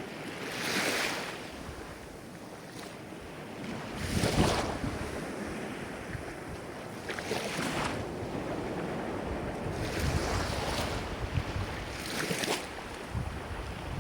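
Ocean waves breaking and washing on the shore, a swell of surf about every three seconds over a steady low rush.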